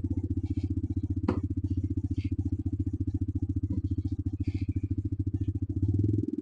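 TVS Raider 125's single-cylinder four-stroke engine and exhaust running steadily with an even pulse. There is a single sharp click about a second in, and a brief rise in level near the end.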